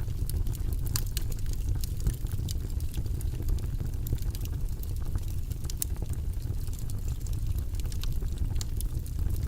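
Wood logs burning in a fireplace, crackling with frequent small sharp pops at irregular intervals over a steady low rush of the flames.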